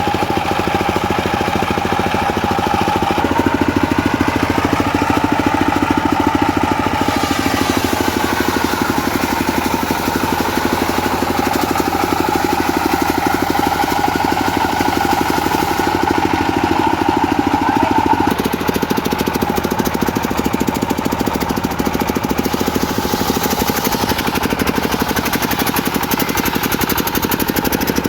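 Diesel-engine-driven circular sawmill running steadily while its blade cuts teak wood; the blade's whine shifts in pitch as the cutting load changes.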